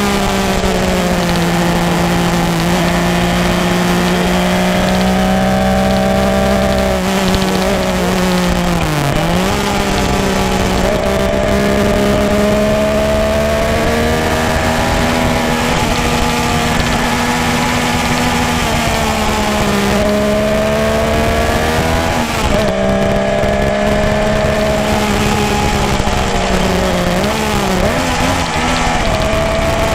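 Egli-framed motorcycle's engine and exhaust running under way at a steady engine speed. The note dips briefly and comes back three times, as with throttle changes or gear shifts.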